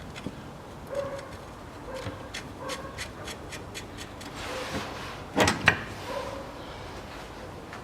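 Metal hardware being handled and threaded under a car: a quick run of light regular clicks, then a sharp double clank a little past five seconds in, as nuts are started on bolts by hand.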